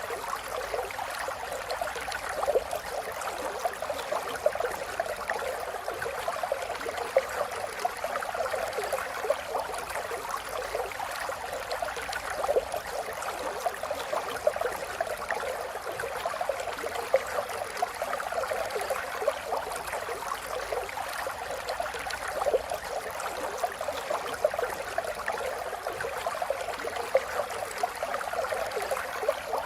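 River water flowing and burbling over stones, a steady rush full of small splashes and gurgles.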